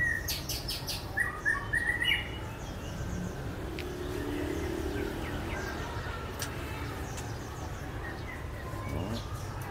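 Small songbirds chirping, with a quick run of short calls between one and two seconds in, then only faint chirps.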